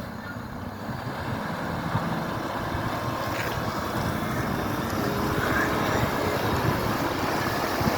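Mack front-loader garbage truck's diesel engine running, growing steadily louder.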